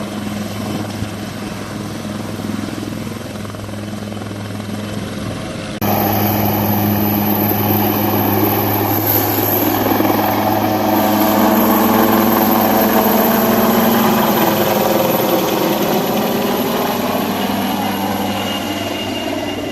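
Military helicopter's rotor and turbine running steadily. About six seconds in the sound jumps suddenly louder. It swells to its loudest midway, with slowly bending tones, and fades near the end.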